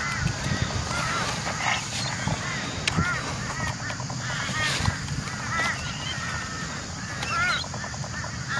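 Birds calling: short, arched calls repeated irregularly about once a second, over a steady low rumble.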